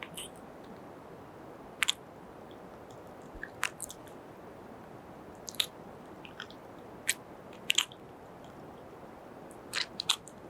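Close-up kissing sounds into a microphone: short wet lip smacks, one every second or two, some in quick pairs, over a steady hiss.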